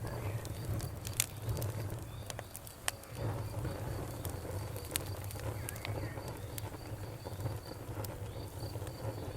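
Bonfire crackling with scattered sharp pops over a low rumble, while crickets chirp in a steady, evenly pulsed high trill.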